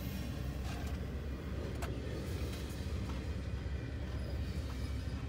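Steady low rumble of a BNSF double-stack intermodal freight train rolling past, heard from inside a car, with a few faint clicks from the passing cars.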